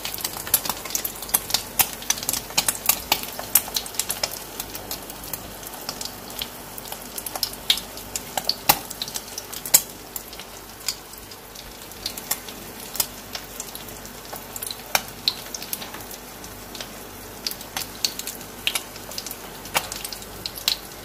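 An aloo tikki (potato patty) shallow-frying in ghee in a non-stick pan: a steady sizzle with frequent sharp crackles and pops, which thin out after the first several seconds.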